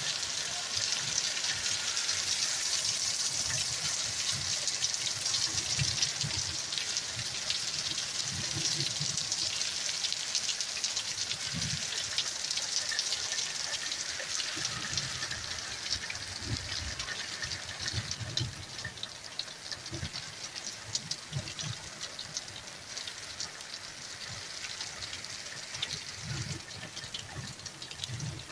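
Heavy storm rain falling, a steady hiss dotted with the ticks of individual drops, easing a little toward the end. Irregular low thumps come and go under it.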